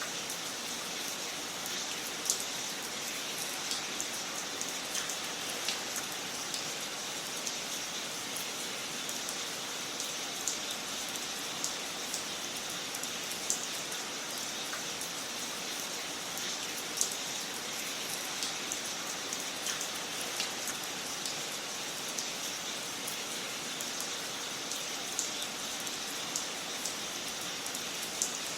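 Wood fire crackling in a fireplace: a steady soft hiss with sharp, irregular pops and snaps every second or two.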